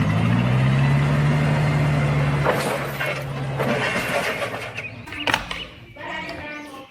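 Forklift engine running with a steady low hum, rising slightly in pitch at first and fading out about four seconds in. A few clicks and rattles follow near the end.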